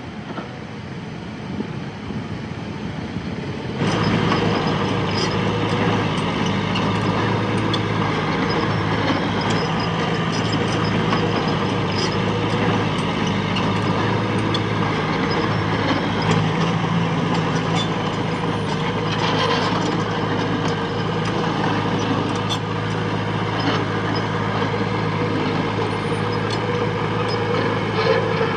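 Heavy diesel machinery running steadily, with scattered clanks and knocks over the engine sound. About four seconds in it suddenly becomes louder.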